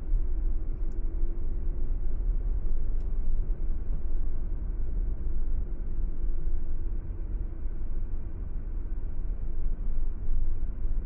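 Car driving along a road: a steady low rumble of road and engine noise with a faint wavering hum.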